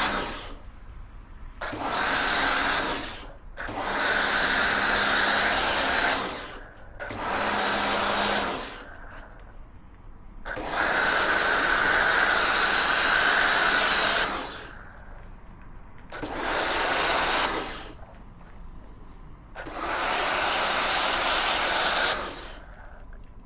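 Kärcher K2 electric pressure washer running in repeated bursts of about one to four seconds, its motor and pump starting and stopping as the spray trigger is squeezed and released, with the hiss of the water jet.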